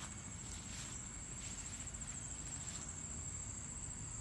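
Singing insects trilling steadily in one continuous, high, finely pulsed note, with a few soft rustles in the first three seconds.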